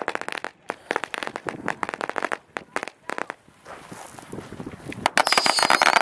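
A pack of firecrackers going off as a rapid, irregular string of sharp pops, with a hiss a little past the middle, then a denser, louder run of cracks near the end.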